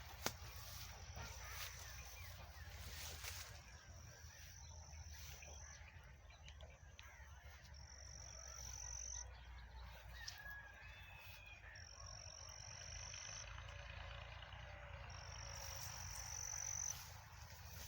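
Repeated high buzzing animal calls, each lasting a second or two and rising slightly in pitch and loudness, coming every few seconds over a low rumble. A few faint chirps come about ten seconds in.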